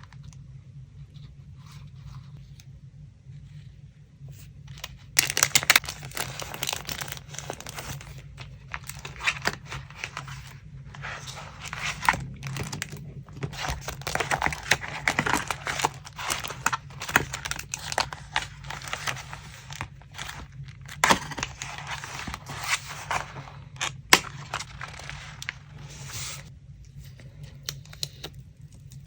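Paper being crinkled and torn by hand, starting about five seconds in and running in uneven spells with a few sharp snaps, then easing off near the end.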